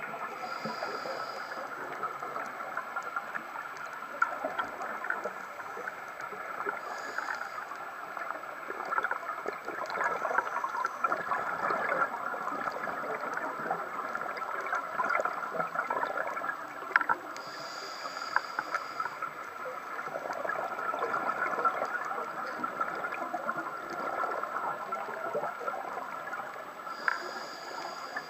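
Underwater sound picked up by a diving camera on a reef: a constant watery crackle of many small clicks, with a brief soft hiss four times.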